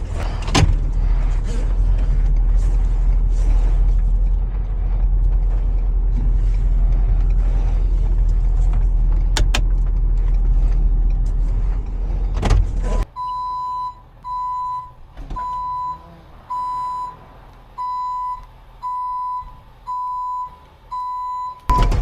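Tow truck's engine running with a steady low rumble, then its reversing alarm beeping, a single high tone about once a second, as the truck backs up.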